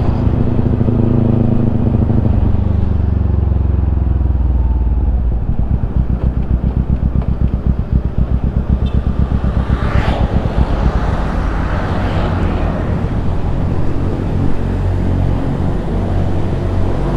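Kawasaki Ninja 250 engine through an aftermarket Yoshimura exhaust, its revs falling over the first few seconds and then settling into an evenly pulsing idle. A brief, sharper noise about ten seconds in.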